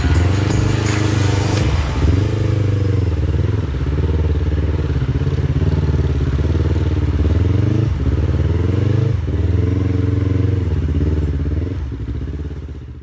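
Motorcycle engine running under way, its low drone rising and falling in pitch again and again as the revs change with throttle and gear shifts; it fades out near the end.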